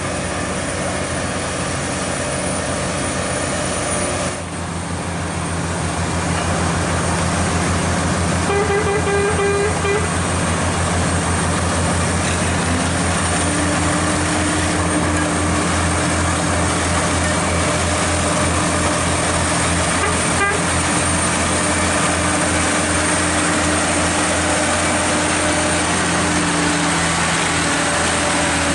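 Heavy haulage truck's diesel engine running steadily, with horn blasts: one held for the first four seconds or so and a shorter one around nine seconds in.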